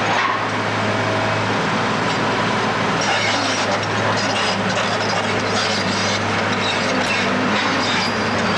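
Heavy demolition machinery running steadily with a constant engine hum, with scattered clanks and cracks of breaking material throughout.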